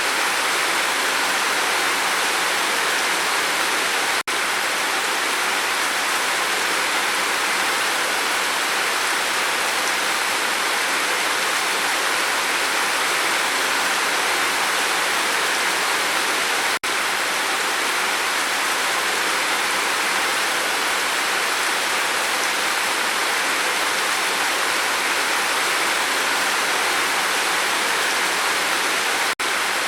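Steady rain falling on a roof, an even hiss with no let-up, broken three times by a split-second dropout.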